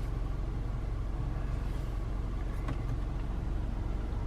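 Low, steady rumble of the 2017 Toyota Camry SE idling, heard from inside the cabin, with a faint click about two and a half seconds in.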